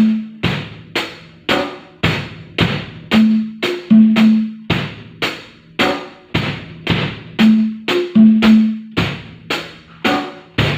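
A drum kit played in a steady beat of bass drum and snare, roughly two strokes a second, with short held low notes in between.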